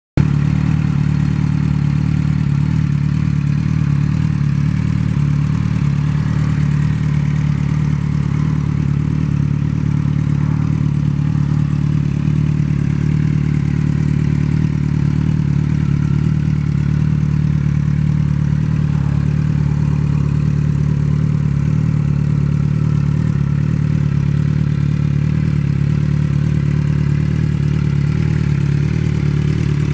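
2007 Suzuki GSX-R600's inline-four engine idling steadily through a Scorpion slip-on exhaust, the exhaust note holding an even pitch without revs.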